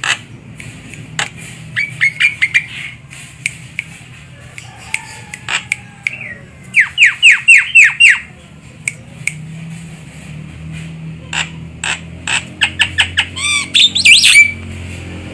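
Javan myna calling: a varied string of harsh squawks, clicks and whistled notes, including a run of five quick downward-slurred notes about seven seconds in and a dense, tangled burst of calls near the end.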